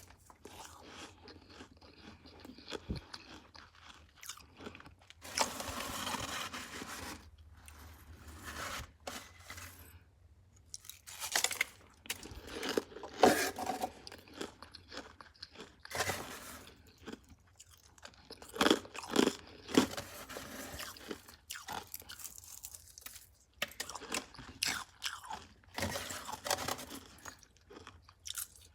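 Someone chewing mouthfuls of freezer frost, with crunching bites that come in irregular bursts and short pauses between them.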